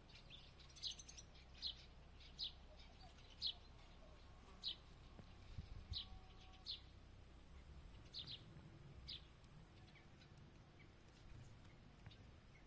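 Faint songbird chirps: about ten short, high chirps spaced irregularly, with quiet outdoor background between them.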